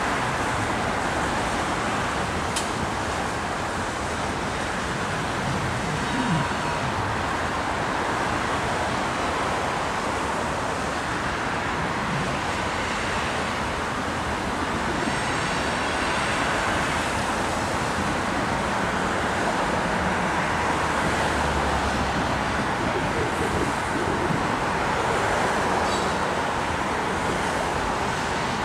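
Loaded coal hopper cars of a freight train rolling past, a steady wheel-on-rail rumble and rattle.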